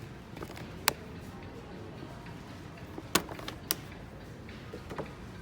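A few sharp clicks or knocks over steady background noise: one about a second in, two close together a little after three seconds, and a fainter one near the end.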